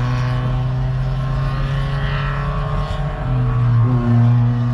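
Spec Miata NB's four-cylinder engine idling steadily while the car sits stopped, heard from inside the stripped cockpit.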